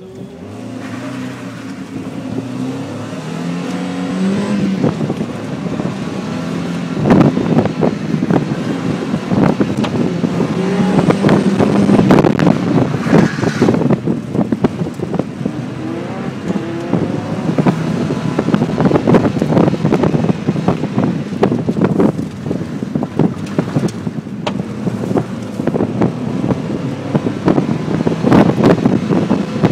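Mazda Miata's four-cylinder engine accelerating hard from a standing start, revs climbing and building in the first few seconds, then rising and falling through an autocross course. Wind buffets the in-car microphone of the open-top car.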